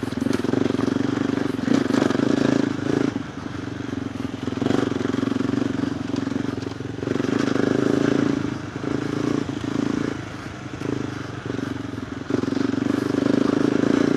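KTM 390 Adventure R's single-cylinder engine running through a Norifumi Whoops stainless slip-on exhaust with the dB killer fitted, heard while the bike is ridden on a dirt trail. The engine note rises and falls as the throttle is opened and rolled off, with two dips and a steady pull again near the end, and a few knocks from the bike going over rough ground.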